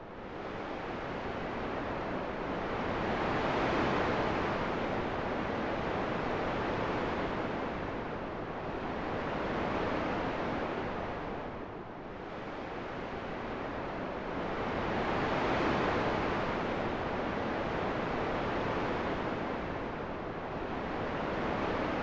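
Wind blowing, a continuous rushing hiss that swells and eases in slow gusts, dipping briefly about halfway through before rising again.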